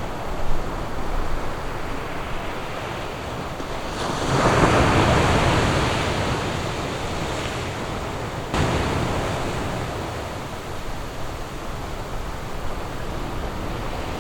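Ocean surf washing on a beach. One wave builds and breaks louder about four seconds in, then falls back abruptly to the steady wash a little past halfway.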